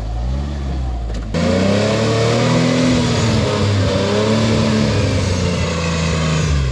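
Off-road rig's engine revving up and down under load as it crawls over rocks. The sound jumps suddenly louder and rougher about a second in.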